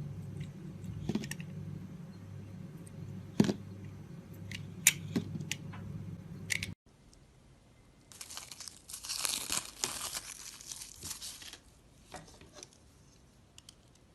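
A knife carving a bar of soap: scattered sharp clicks and short scrapes, then about a second after an abrupt cut a dense, crisp scraping crackle for three to four seconds as the blade shaves the soap, ending in a few light ticks. A steady low hum sits under the first half.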